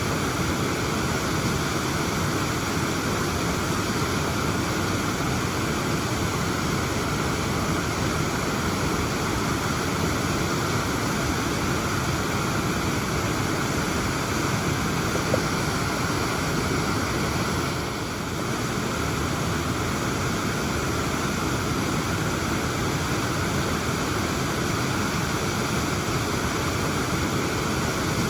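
Waterfall pouring, a steady, dense rush of falling water, briefly a little softer about two-thirds of the way through.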